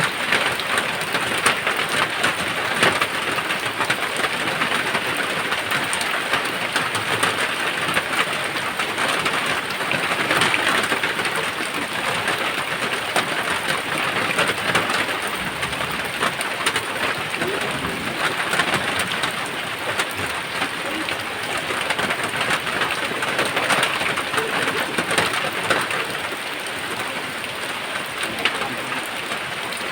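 Steady heavy rain: a dense patter of drops falling on surfaces, swelling a little in strength now and then.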